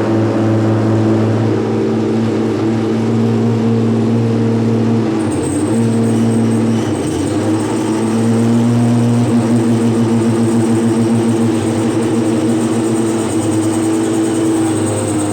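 Racing car engine running at fairly steady revs, its pitch dipping and shifting about five to seven seconds in before settling again. A thin high whine joins it about five seconds in.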